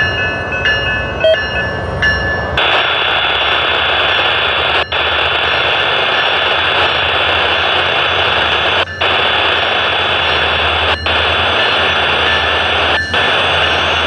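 SunRail bilevel commuter train standing at a station platform, giving off a loud, steady rushing noise with a thin high whine over it.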